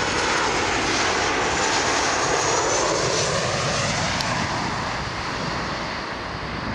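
Jet engines of a CanJet Boeing 737-800, its twin CFM56-7B turbofans, heard as the airliner passes. A dense, steady jet noise that eases slightly in the second half.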